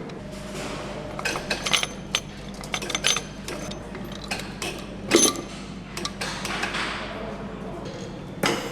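Metal parts and tools clicking and clinking on an engine assembly line: irregular sharp knocks over a steady factory hum, with a louder clank about five seconds in and another near the end.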